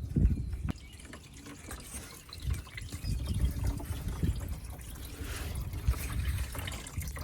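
Engine coolant trickling from the car's radiator drain into a container, the flow getting louder about two and a half seconds in after the radiator cap has been loosened to let it drain.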